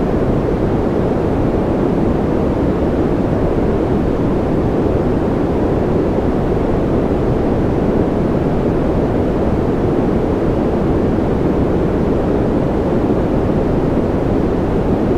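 Steady white-noise sleep track: an even, unchanging rushing noise, strongest in the low-middle range with little treble.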